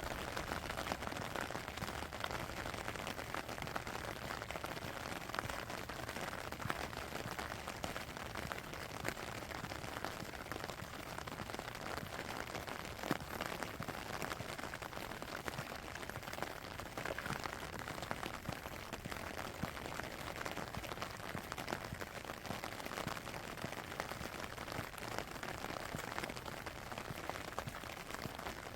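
Steady rain falling, with many small drop taps scattered through an even hiss.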